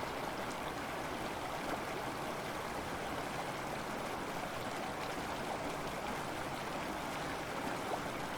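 Steady rushing of running water, like a flowing stream.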